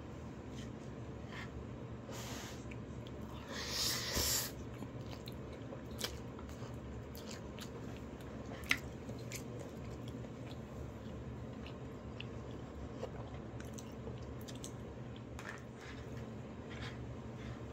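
A person chewing a mouthful of fried rice close to the microphone, with small scattered mouth clicks and a louder burst of mouth noise about four seconds in, over a low steady hum.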